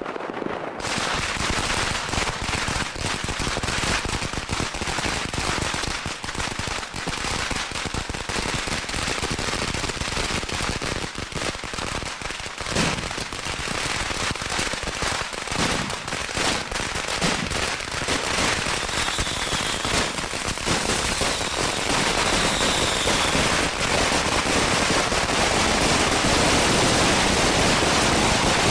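Fireworks firecrackers going off in a dense, continuous crackle of rapid cracks, starting sharply about a second in and growing louder and denser toward the end.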